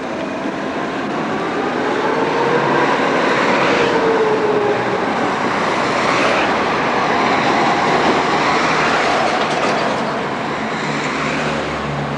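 Electric tram running past on the rails: wheel rumble that swells and stays loud through the middle, with a whine that rises and falls in pitch.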